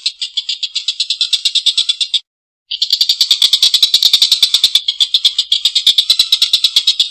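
Tengkek buto kingfisher giving its long, harsh cackling call: a rapid rattle of about ten notes a second that breaks off briefly about two seconds in, then starts again.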